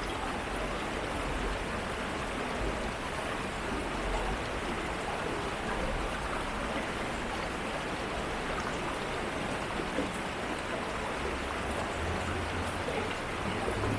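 City stream flowing steadily, a continuous rush of water with a low rumble underneath that grows near the end.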